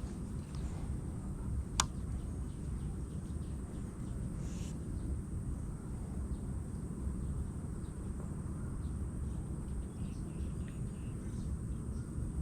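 Steady low rumble of outdoor background noise, with one sharp click about two seconds in.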